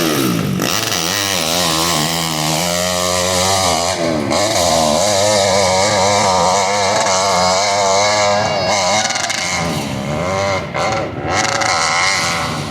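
Dirt bike engine revving hard under load, its pitch rising and falling again and again as the throttle is worked, with a couple of brief drops in revs near the end.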